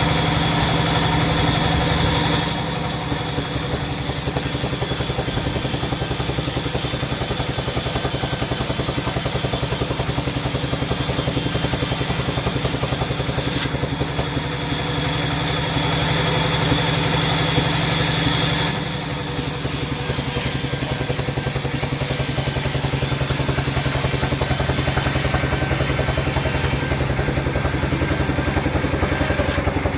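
Sawmill saw running steadily with a fast, engine-like low pulse. A bright high hiss comes in twice, from about two to fourteen seconds in and from about nineteen seconds to near the end, as the blade cuts through wood.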